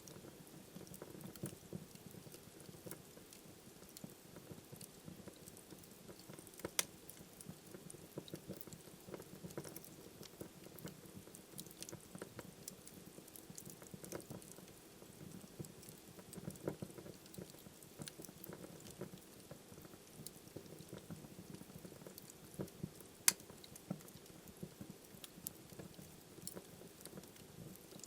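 Wood fire burning in a fireplace: a soft low rumble of flames with frequent small crackles and pops, two sharper pops at about seven seconds and near the end.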